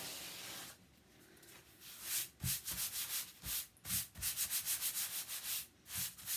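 Adhesive stencil transfer sheet rubbed against a cloth towel to pick up lint ('fuzzing') so it is less sticky: one short swish, then a run of quick rubbing strokes, about four a second, from about two seconds in.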